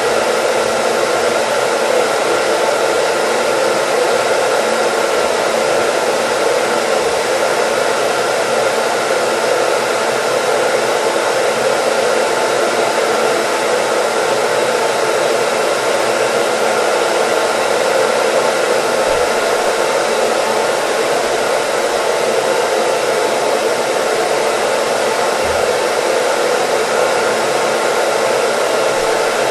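Hair dryer running steadily: a continuous, even rush of blown air with a faint hum, unchanging throughout.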